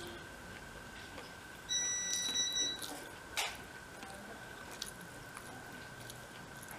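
Eating rice and curry by hand: faint chewing and fingers working food on a plate, over a steady faint high whine. Near two seconds in, a steady high tone sounds for about a second, the loudest thing here, followed shortly by a sharp click.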